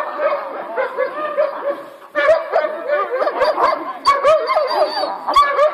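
Dog barking and yelping excitedly in a rapid string of short, pitched calls, several a second, busier from about two seconds in, with sharp clicks mixed among them.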